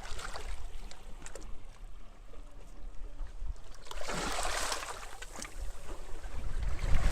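Small sea waves washing onto a beach, one breaking and washing in strongly about four seconds in and another starting near the end, with scattered small splashes. Wind gusts rumble low on the microphone throughout.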